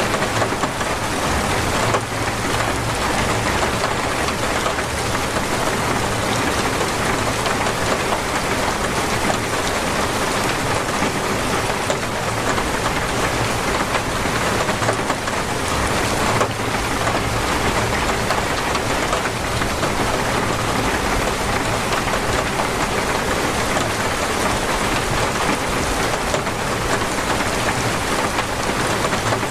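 Heavy, steady rain falling and splashing on surfaces, a dense even hiss without pauses.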